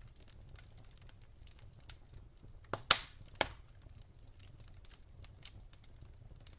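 Campfire crackling: scattered small ticks and snaps, with a cluster of loud pops about three seconds in, over a low steady rumble.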